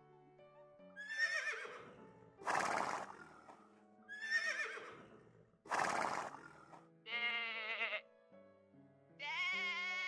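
A horse whinnying with a shaky, falling call followed by a loud snort, heard twice the same way. Then two bleats come near the end, all over steady background music.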